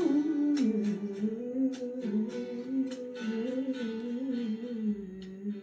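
Wordless female humming of a slow, wavering melody, with plucked guitar notes behind it, closing out a song.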